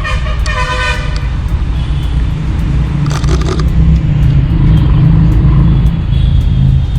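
Steady low rumble of a passing vehicle, with a short burst of higher noise about three seconds in.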